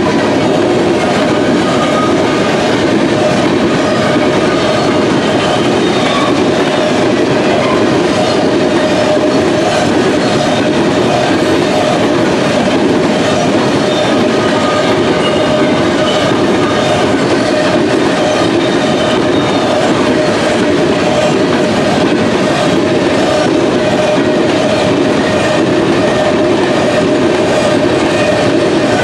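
Empty covered hopper cars of a freight train rolling past at speed: a steady loud rumble of steel wheels on rail, with clickety-clack over the rail joints and a steady ringing tone running through it.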